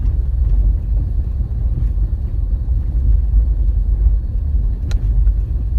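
Truck driving along a road, a steady low rumble of engine and road noise heard from inside the cab, with a single light click about five seconds in.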